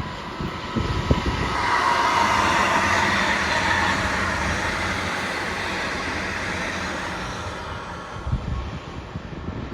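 A train passing at speed: a rush of wheel and rail noise that builds over the first two seconds, peaks, then slowly dies away.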